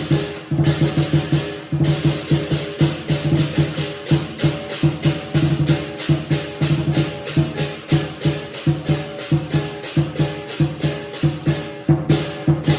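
Lion dance percussion ensemble playing a fast, driving rhythm: a large drum beaten in quick strokes with cymbals clashing, the cymbals loudest near the start and again near the end.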